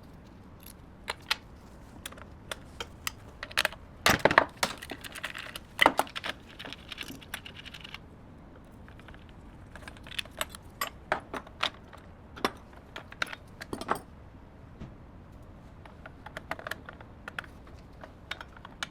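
Irregular small metallic clicks and clinks of hand tools and fasteners being handled during disassembly work on a car, loudest in a cluster a few seconds in.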